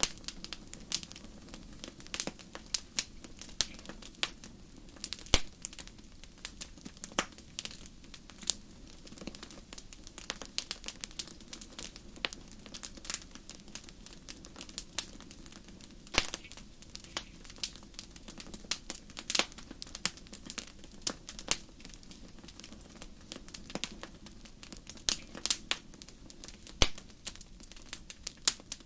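Campfire crackling: burning wood giving irregular sharp pops and snaps over a low steady background.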